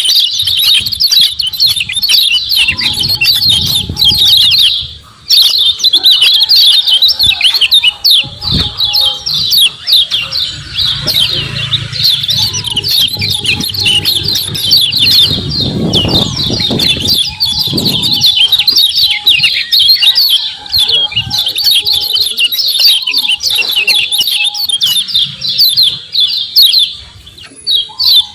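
Kecial kuning white-eyes giving a dense, rapid 'ciak ciak' chatter of high chirps, with short pauses about five seconds in and near the end. Some low, muffled thumping sits under the calls in the middle.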